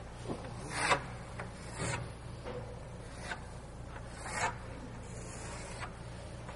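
A few short scraping strokes, roughly one a second, over a steady low hum.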